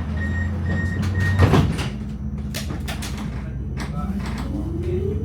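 Tram door-closing warning beeps, then the doors sliding shut about one and a half seconds in. Near the end the tram's traction motor starts a rising whine as it pulls away from the stop.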